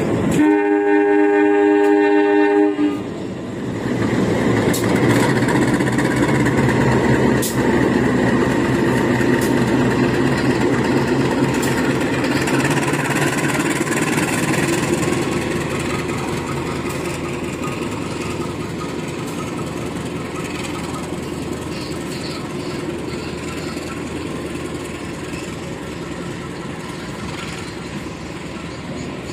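Diesel-electric locomotive horn sounding once for about two and a half seconds and cutting off sharply, then the locomotive running under power and the passenger coaches rolling past on the rails as the train departs. The sound slowly fades as the train pulls away.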